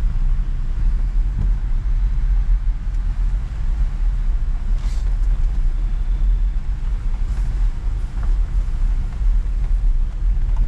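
Off-road vehicle heard from on board while driving: a steady, loud, low engine and drivetrain rumble.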